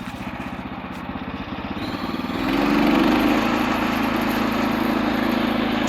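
Woodland Mills HM126 band sawmill's small gasoline engine idling with an even pulsing beat, then throttled up about two and a half seconds in to a louder, steady run.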